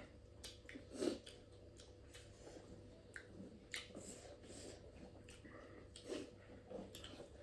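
A person chewing and eating duck curry: faint wet smacks and small clicks of eating, scattered irregularly, with a slightly louder one about a second in and another near six seconds.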